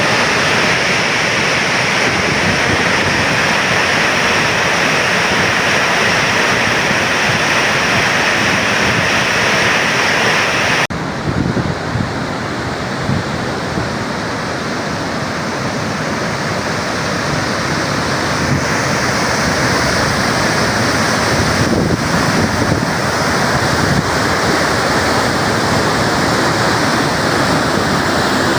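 Heavy, steady rush of floodwater discharging through Tarbela Dam's service spillway. About eleven seconds in the sound changes abruptly, becoming a little quieter and duller, then slowly grows louder again.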